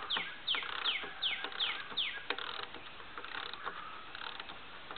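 A bird calling a rapid series of about seven short notes, each sliding down in pitch, about three a second, that stops about two seconds in. A few light clicks and taps sound through and after it.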